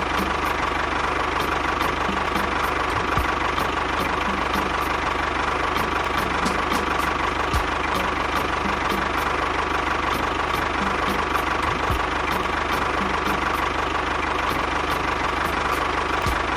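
Mini tractor model's engine sound running steadily at idle, with an even repeating tick throughout.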